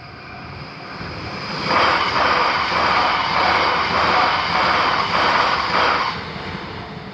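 A train passing close by: a rushing rumble that builds over about a second, holds loud for about four seconds with a regular pulsing beat, then dies away.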